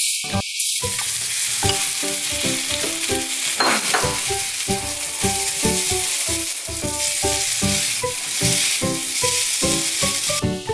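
Soaked glass noodles sizzling steadily as they are stir-fried in hot oil and a little sauce in a wok.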